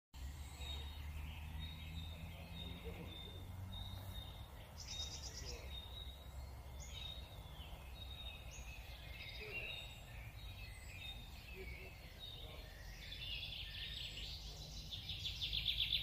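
Several birds chirping and calling in short high notes over a low, steady background rumble, with a rapid trill growing louder near the end.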